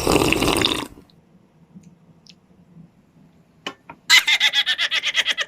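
A short noisy sound at the start, then quiet with a few faint clicks, then a person giggling in quick bursts near the end.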